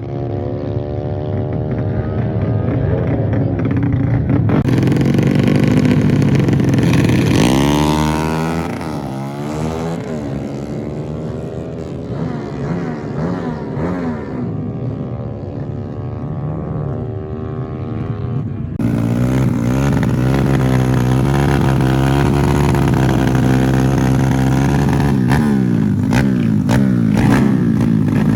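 Drag-racing motorcycle engines revving and accelerating hard, their pitch climbing and falling through the gears. The sound changes abruptly about five seconds in and again about two-thirds of the way through.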